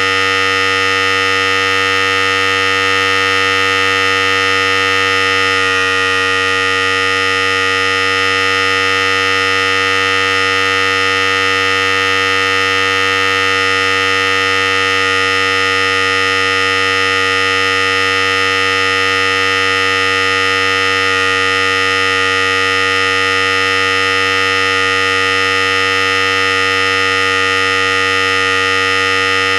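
Philips Series 5000 electric hair clipper running continuously, a steady buzzing hum.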